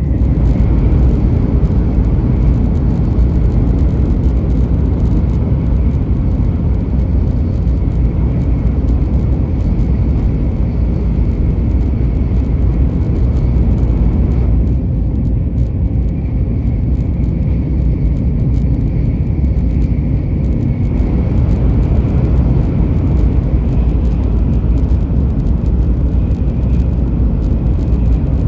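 Steady low rumble of a moving vehicle, with a faint steady whine above it; the higher hiss eases for a few seconds about halfway through.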